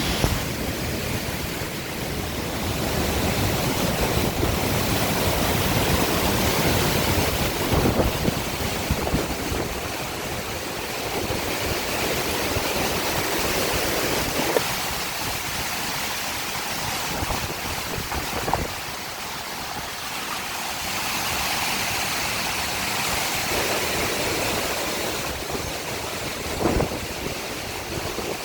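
Hurricane wind gusting, a loud rushing noise that swells and eases every few seconds, with a few brief sharp knocks.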